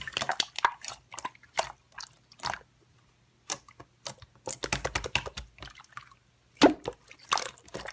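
Slime being squished and pressed by hand, a run of wet clicks and pops with a brief lull about three seconds in.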